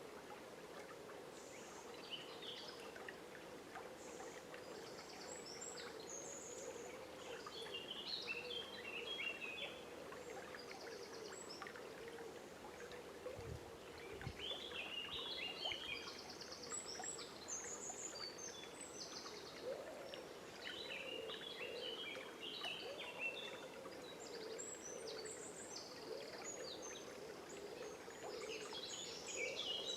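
River water flowing steadily, with several birds singing short, chirping phrases on and off throughout. Two brief low bumps come near the middle.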